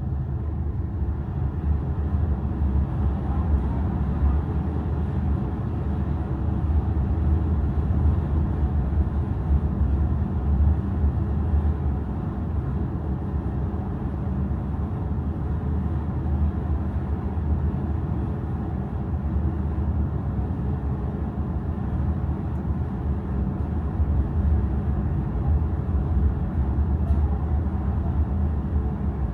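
Steady low rumble of a large car ferry under way, its engines and hull droning evenly.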